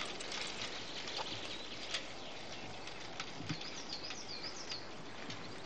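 Steady outdoor background hiss with a few soft ticks, and a short run of bird chirps about four seconds in.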